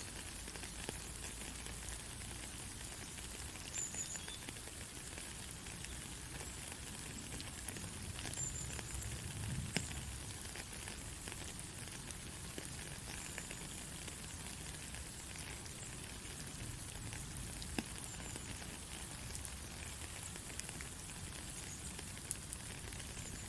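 Steady heavy rain hissing, with scattered individual drop ticks and a brief low rumble about nine seconds in.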